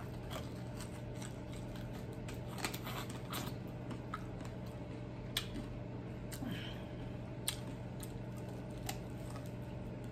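Close-up chewing and biting of a sauce-dipped fried chicken wing: scattered short wet clicks and crunches from the mouth, the two sharpest about five and seven and a half seconds in, over a steady low hum.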